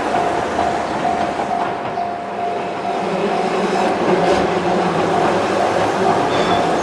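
Keihan 700 series two-car commuter train running over a steel girder bridge, its wheels rumbling and clattering on the rails, while a level-crossing warning bell dings over and over.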